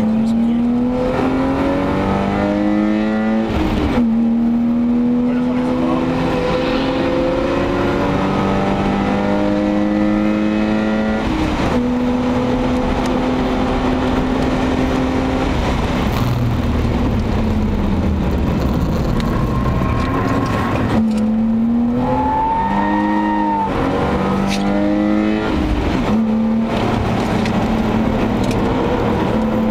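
BMW E34 525i's 2.5-litre 24-valve straight-six, heard from inside the cabin, pulling hard with its pitch climbing through two upshifts. It then eases off and drops in pitch, shifts down with quick jumps in revs, and pulls up again near the end.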